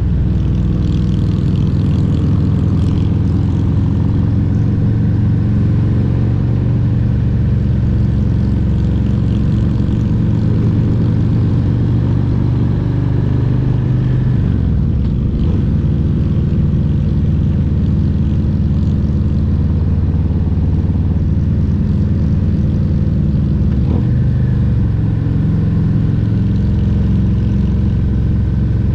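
Harley-Davidson Road Glide Special's Milwaukee-Eight 114 V-twin running steadily under way on the road, its pitch dipping briefly about halfway through.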